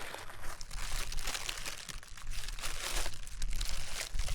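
A deflated Mylar foil balloon crinkling as it is handled, with irregular crackles throughout.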